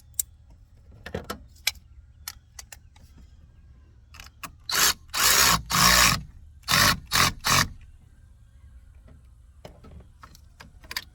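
Hand ratchet wrench tightening a nut: a few light tool clicks, then a run of about six short, loud ratcheting strokes around the middle.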